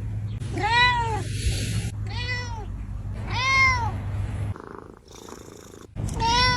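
Domestic cat meowing: three rising-then-falling meows about a second apart, then a fourth near the end. A low steady hum runs underneath and stops a little after four seconds in.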